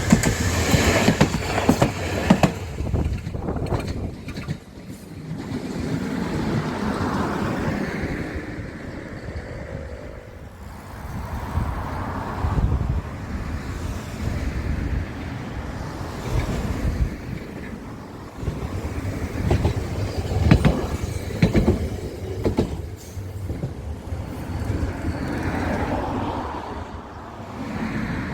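A rail vehicle running along the track, its wheels clicking over rail joints near the start and again about twenty seconds in, with the running noise swelling and fading between.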